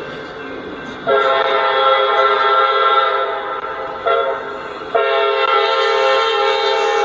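Freight locomotive's multi-chime air horn sounding a long blast, a short blast, then another long blast, over the low rumble of the passing train.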